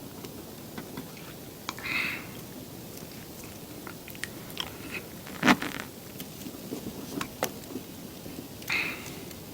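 Close-miked eating of crispy seafood pajeon, with small mouth clicks and chewing, and a short crunchy bite twice, about two seconds in and near the end. A sharp clack about halfway through is the loudest sound.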